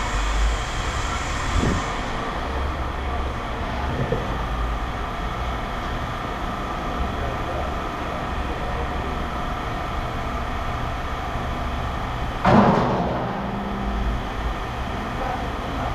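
Heavy engine running steadily, with one loud metal clank about twelve seconds in that rings briefly.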